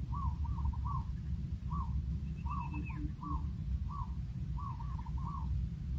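A bird calling: short arched notes repeated about twice a second, with one thin higher note sliding down about halfway through, over a steady low rumble.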